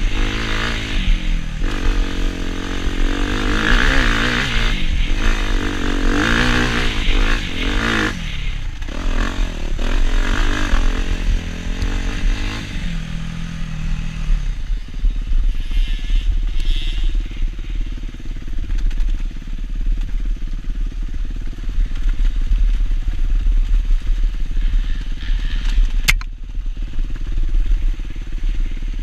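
Suzuki RM-Z250 dirt bike's single-cylinder four-stroke engine revving up and down repeatedly through the first half, then settling to a steadier, lower running note. There is one sharp click near the end.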